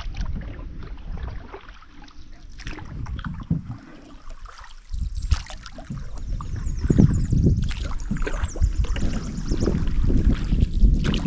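Canoe paddle strokes dipping and splashing in the creek, with occasional knocks on the hull. Wind buffets the microphone, strongest from about halfway through.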